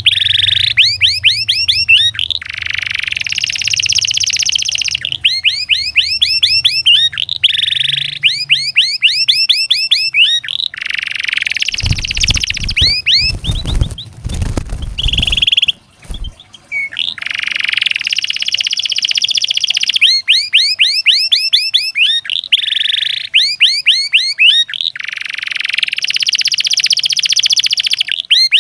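Domestic canary singing a long, loud song: rapid trills of short repeated rising notes alternating with buzzy rolls, used as master song to get other canaries singing. A low rumble sits under the song about halfway through.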